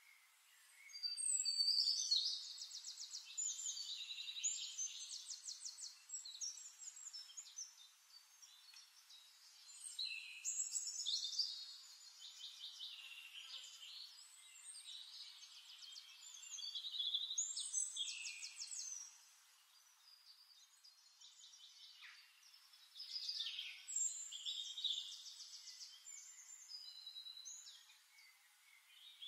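Birds singing: bouts of rapid high trills and chirps, each a few seconds long, with short quieter pauses between them.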